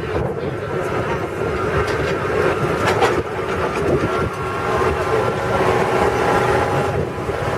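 Farm tour truck driving along, with a steady engine drone and ride noise.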